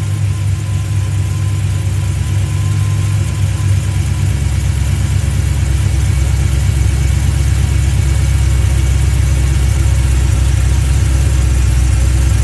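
Car engine idling steadily on a cold start; about four seconds in, its idle note drops lower and settles there.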